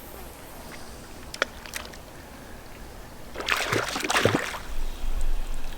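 Water splashing for about a second a little past the middle: a hooked cutthroat trout thrashing at the lake surface as it is brought in.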